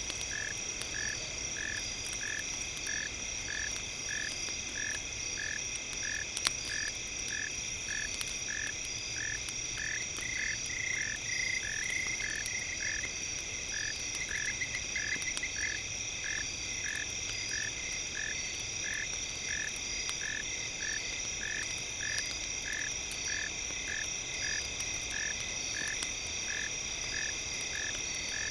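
Layered steady high-pitched electronic tones with a short tone pulsing evenly about 1.4 times a second, over faint campfire crackle. Brief faster trills come in twice, about a third and halfway through.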